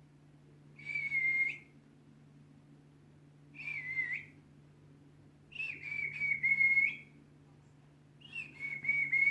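Four drawn-out whistles, each about a second long, held at one steady high pitch with a slight waver, a few seconds apart.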